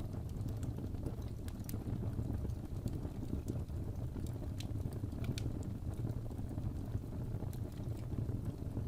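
Wood fire burning in a fireplace: a steady low rumble of the flames with scattered sharp crackles and pops, a few of them louder, about two seconds in and around five seconds in.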